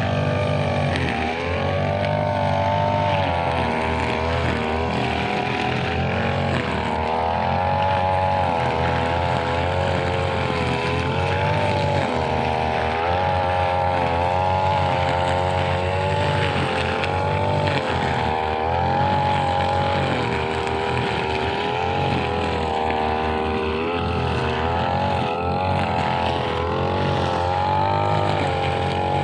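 Brush cutter engine running at high speed, its pitch repeatedly dipping and recovering as the cutting head works through grass.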